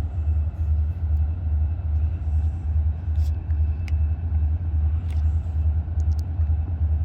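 Diesel locomotives idling, a steady deep throbbing rumble that pulses evenly. These are EMD SD40-2 units with 16-cylinder two-stroke engines, waiting to depart with the air set up.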